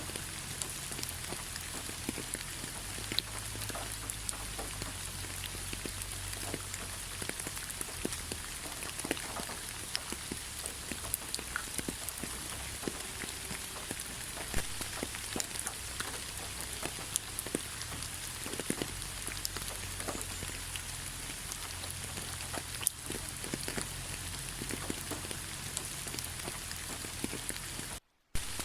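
Steady rain falling on a forest road, with many separate drops ticking close by over an even hiss. The sound cuts out for a split second near the end.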